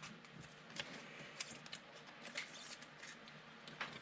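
Trading cards being handled and sorted on a table: faint, scattered light clicks and rustles.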